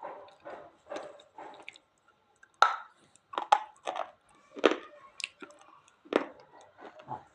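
Slate pencils being chewed close to the mouth: soft, steady chewing at first, then a string of sharp, crunchy bites starting a little past two seconds in.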